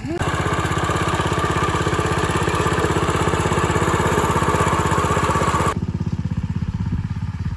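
An engine running steadily with a fast, even pulsing beat. It is louder for most of the time, then drops off suddenly near the end while still running.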